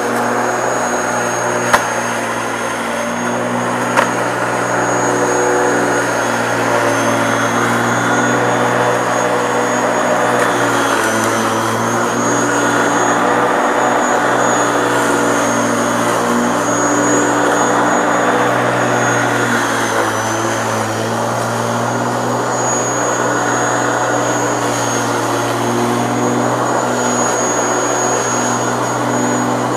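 Qualcast electric lawn mower's Bosch motor running steadily while mowing, a constant hum with a high whistling whine, its pitch wavering slightly under the load of the grass. Two sharp clicks in the first few seconds.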